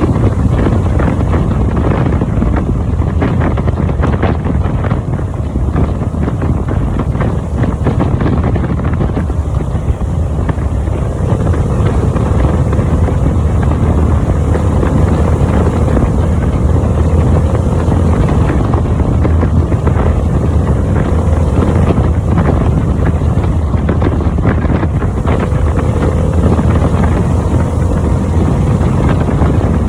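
Harley-Davidson motorcycle riding at road speed: a steady, loud low engine drone mixed with heavy wind buffeting on the microphone.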